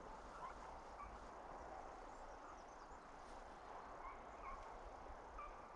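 Quiet countryside ambience: a faint steady hush with a few faint, short bird chirps scattered through.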